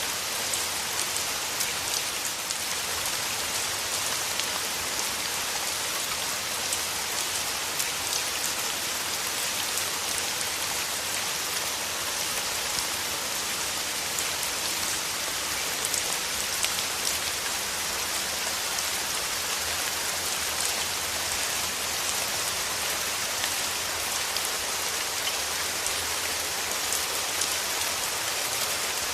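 Steady rain falling: an even, dense hiss with fine patter of individual drops.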